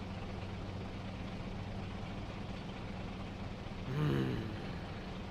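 Steady low hum of idling vehicle engines in a queue of cars. A brief, louder low pitched sound comes about four seconds in.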